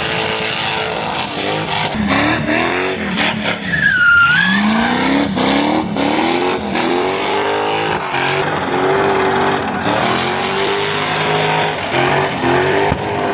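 Car engine revving hard during a burnout, its revs climbing again and again over the hiss of spinning, smoking tyres, with a short high squeal about four seconds in.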